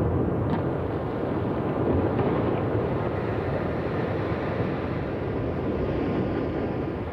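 Glacier ice calving and collapsing, a deep continuous rumble with a faint crack about half a second in, fading gradually near the end.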